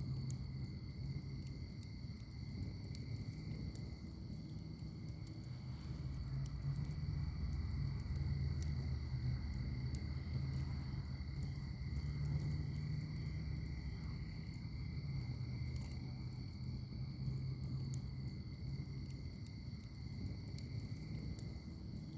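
Wood fire in a firepit crackling with frequent small sharp pops over a low steady rumble of flame. A steady high insect trill runs underneath.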